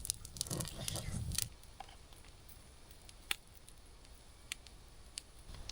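Quiet scattered clicks and soft taps with some handling noise for about the first second and a half, then a few single sharp clicks spaced well apart.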